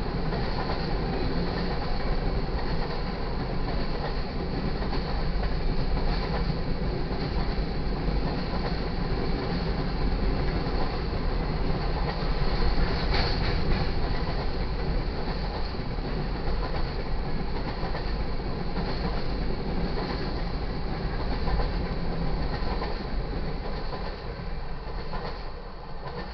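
Covered hopper cars of a freight grain train rolling past at a grade crossing, with steady wheel-on-rail noise. It fades over the last couple of seconds as the end of the train goes by.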